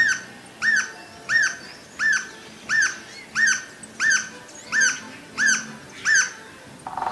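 Green-barred woodpecker calling: an even series of about ten loud, harsh notes, each rising and falling in pitch, roughly one and a half per second.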